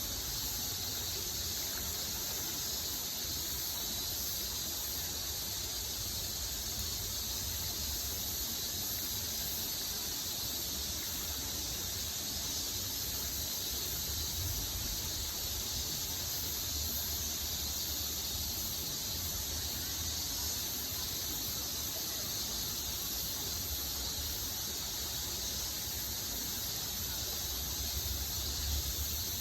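Steady river ambience: an even, unbroken hiss of flowing water with a high, constant drone on top and a low rumble beneath, with no distinct events.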